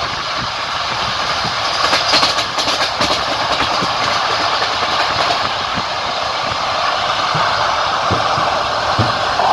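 Passenger train running along the track: a steady rumble of the carriage with irregular knocks of the wheels over rail joints, and a short run of sharp clattering clicks about two to three seconds in.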